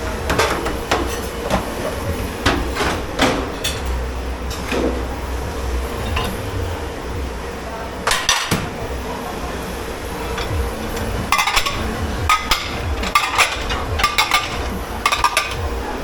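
Dishes, pans and cutlery knocking and clinking as they are handled in a commercial dish pit, with many sharp knocks and, in the second half, bursts of ringing metal and crockery clinks. A steady low hum from kitchen machinery runs underneath.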